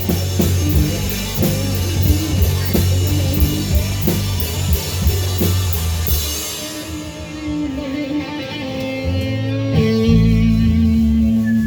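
Live rock band playing, with electric guitar, bass and drums keeping a steady cymbal beat; about six seconds in the drums drop out, leaving guitar and bass holding long sustained notes.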